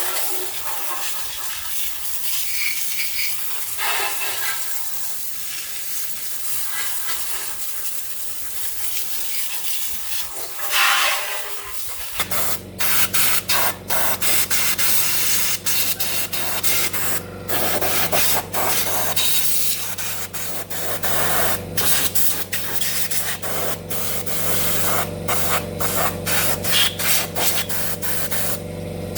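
A steady hissing spray. About twelve seconds in, a steady machine hum starts under it, broken by frequent brief cut-outs.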